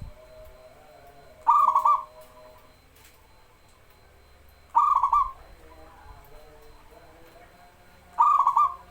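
Zebra dove (perkutut) cooing: three short phrases of rapid staccato coo notes, each about half a second long and about three seconds apart.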